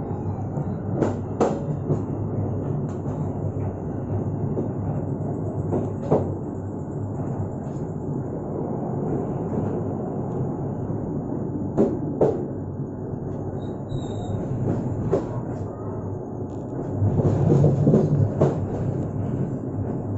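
Passenger train running along the track, a steady rumble of wheels on rail broken by a few separate knocks from the wheels and carriages.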